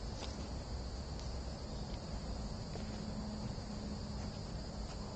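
A steady insect chorus: a continuous high-pitched buzz that neither starts nor stops, over a low rumble.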